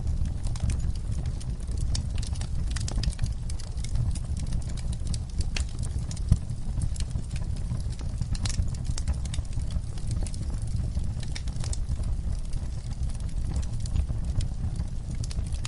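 Wood fire burning, with a steady low rumble of flames and gentle crackling: irregular sharp pops and snaps of burning wood throughout.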